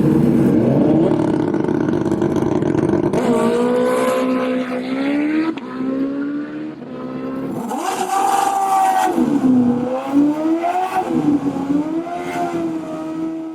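Drag-racing motorcycle engine running loud. It gives a dense, heavy rumble for the first few seconds, then revs high, its pitch climbing and falling back several times.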